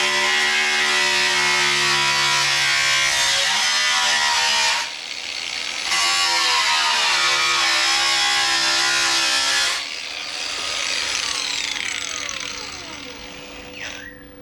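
Angle grinder grinding down fresh MIG welds on a steel body panel in two runs, with a short break between them; about ten seconds in it is switched off and its whine falls in pitch as the disc winds down.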